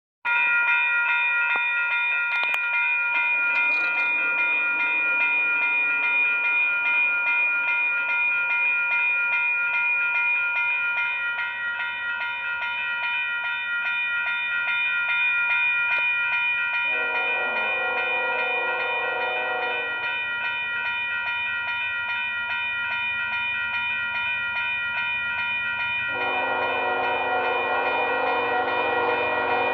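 A grade-crossing signal bell rings steadily. The approaching Union Pacific grain train's lead locomotive sounds its air horn twice: a blast of about three seconds just past the middle, then a long blast starting about four seconds before the end.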